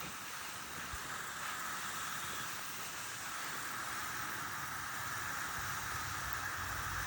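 Steady hiss of water spraying from a garden hose onto plants. Near the end, a low rumble of wind on the microphone joins in.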